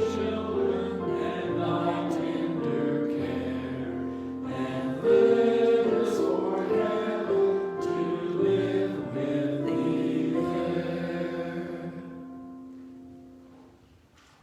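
Choral music with held chords over sustained low notes, ending on a long final chord that fades away near the end.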